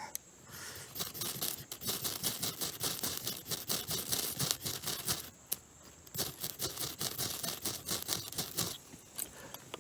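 A magnesium fire-starter scraped with a striker in two long runs of quick, rasping strokes, with a short pause near the middle, to throw sparks onto tinder.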